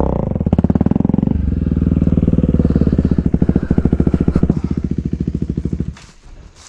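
Off-road motorcycle engine running steadily close by, then dropping away suddenly about six seconds in.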